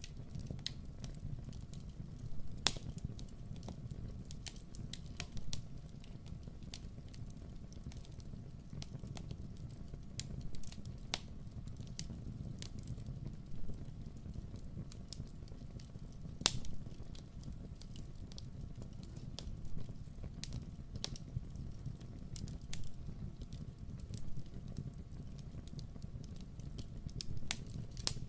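Wood fire burning in a fireplace: a steady low rumble of flames with scattered sharp crackles and pops, a louder pop about three seconds in and another a little past the middle.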